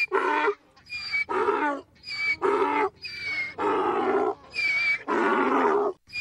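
Donkey braying: a run of hee-haws, each a short high 'hee' followed by a longer, lower 'haw', about five in a row, the last haws drawn out longer.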